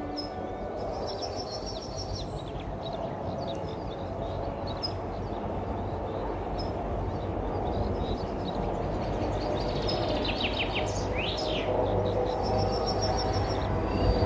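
Songbirds chirping and singing in several short bouts, with quick rising and falling notes, over a steady outdoor hiss and low rumble.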